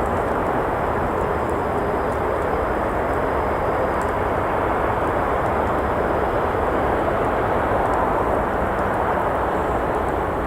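Steady rush of road traffic from a nearby road, an even noise that never lets up, with a few faint sharp pops from a crackling campfire.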